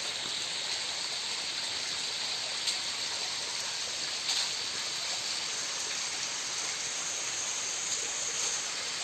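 Steady rushing of water from a waterfall running low in the dry season, with a couple of faint knocks near the middle.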